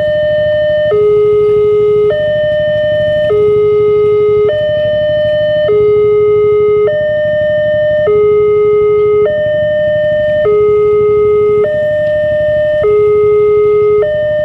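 Electronic railway level-crossing warning alarm sounding a two-tone high-low signal: each tone is held about a second before switching, repeating steadily. The uploader takes the alarm for an older-version WANTECH unit.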